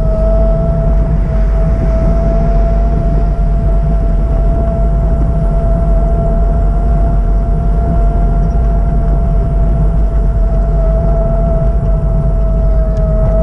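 Train running close by: a loud, steady low rumble with a steady whine that rises very slightly in pitch.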